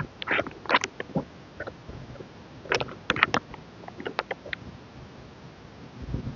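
Album packaging being handled in an unboxing: crackly crinkles, rustles and small taps of plastic wrap and paper items in a few short clusters, with a soft thump about six seconds in as something is set down.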